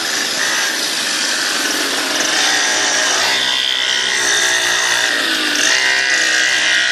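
Mini dirt bike's small engine running with a high, buzzy note, its pitch rising and falling as the throttle changes.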